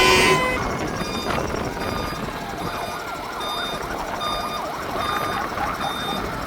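Several fire engine sirens sounding at once from a passing convoy, with steady stepping two-tone patterns and rising-and-falling wails overlapping. A loud horn-like blast comes right at the start.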